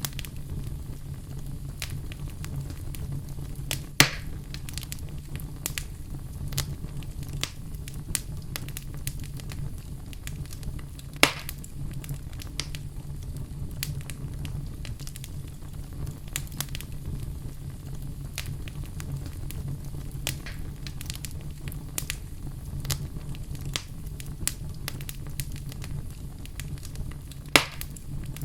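Wood fire burning in a fireplace: a steady low rumble with frequent small crackles, and three sharp louder pops, about four seconds in, about eleven seconds in and near the end.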